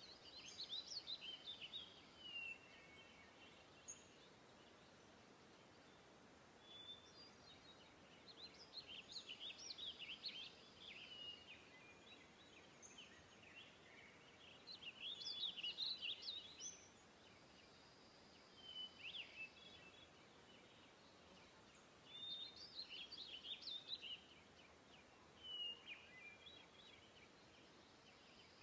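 Faint birdsong: bursts of quick twittering chirps and short falling calls come every few seconds over a quiet background hiss.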